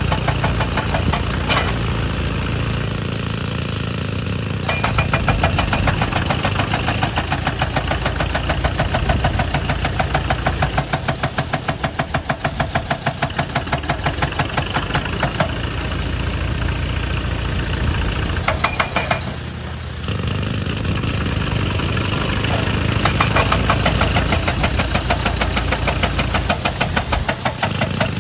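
JCB excavator's hydraulic rock breaker hammering rock in rapid, even blows, many a second, over the steady run of the excavator's diesel engine. The hammering eases off briefly a few times, leaving the engine running.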